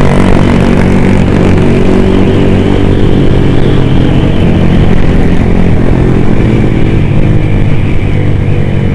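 Motorcycle engine running steadily at cruising speed, heard from on the bike, over a rush of road and wind noise.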